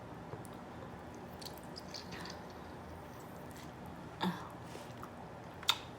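Quiet close-up chewing of lobster meat: soft mouth smacks and small clicks, with a short low voice sound about four seconds in.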